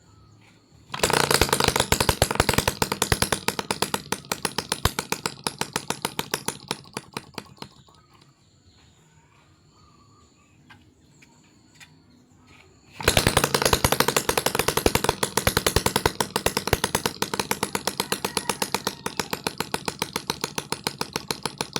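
Homemade two-stroke engine built from a refrigerator compressor, running with a rapid train of sharp firing strokes. It starts abruptly about a second in and fades out around eight seconds, then starts again about thirteen seconds in and runs on, getting somewhat quieter after the start each time.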